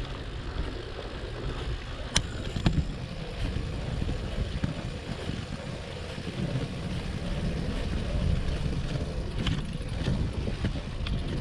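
Riding a Brompton folding bicycle: steady low rumble of wind on the microphone and tyres on the road, with a few sharp clicks of the bike rattling.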